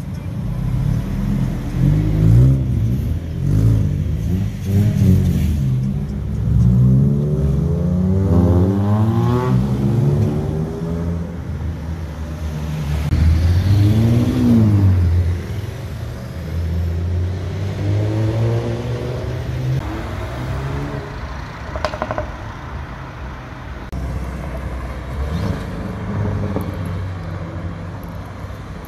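Several sports car engines revving and accelerating away one after another, the pitch sweeping up through the gears. A modified Toyota MR2 pulls off first, and a Nissan GT-R passes close, rising and falling in pitch about halfway through. A short sharp crack sounds about three quarters of the way in.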